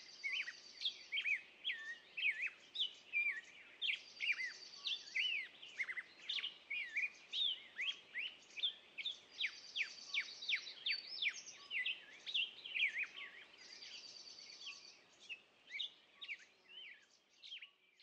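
Several small songbirds chirping and singing in quick, overlapping short calls that slide downward, with a buzzy trill repeated every few seconds. The singing thins out near the end.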